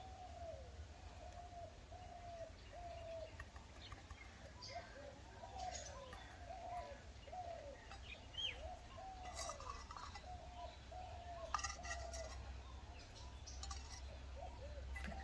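A bird calling faintly: a long series of short, arched call notes repeated a little under twice a second, with a few higher chirps in between.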